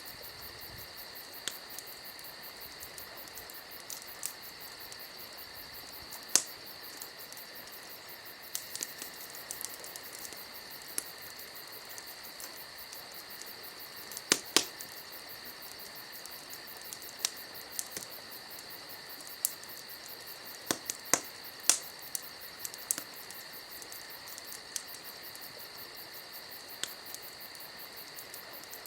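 Wood fire crackling, with irregular sharp pops and snaps, a cluster of louder ones about halfway through, over a steady high hiss.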